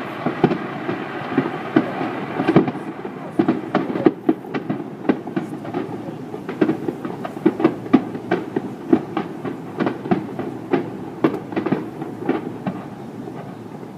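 Fireworks going off in quick succession, many sharp bangs and cracks a second over a steady rumble, thinning out near the end.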